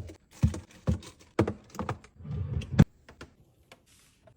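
Groceries and containers being handled and set down while restocking a fridge: a quick run of sharp knocks and clacks, with some rustling, that stops about three seconds in.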